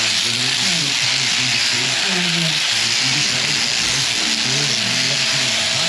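Electric sheep-shearing handpiece running with a steady high buzz, with lower wavering sounds underneath.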